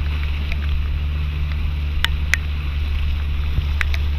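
Tour boat's motor running steadily, a low hum, with a few short sharp high-pitched ticks or chirps about halfway through and near the end.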